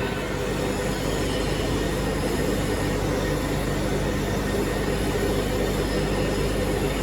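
Steady workshop machinery running: a continuous low rumble with a steady hum underneath.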